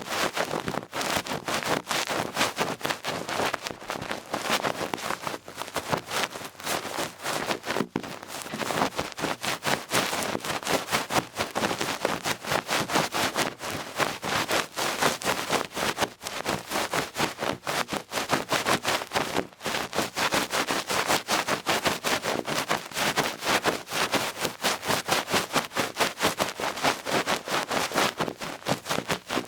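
The duck-feather tuft of an ear pick brushing and swirling against a microphone's ear, making a continuous scratchy rustle of rapid, closely spaced strokes.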